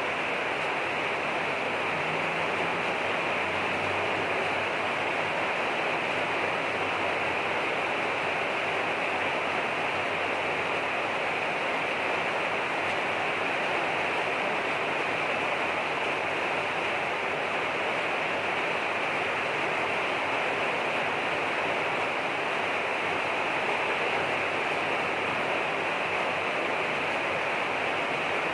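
Steady heavy rain, an even hiss of falling water with no let-up.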